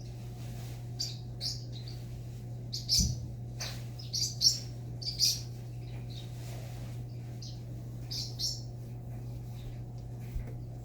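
Pet parrot giving short, high chirps and squeaks, about a dozen scattered irregularly, the loudest around three to five seconds in, over a steady low hum.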